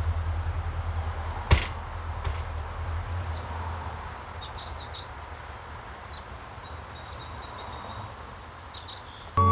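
Small birds chirping in short repeated calls over a steady low rumble, with one sharp click about a second and a half in; music comes in right at the end.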